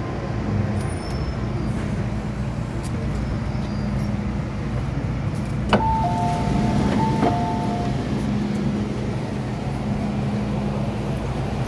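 MTR M-Train electric multiple unit running, with a steady rumble and motor hum. About six seconds in there is a click, followed by a two-note electronic chime that sounds twice.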